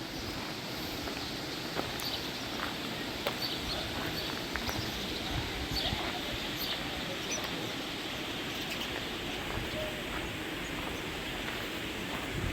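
Outdoor nature ambience: a steady rushing hiss with short bird chirps scattered through it.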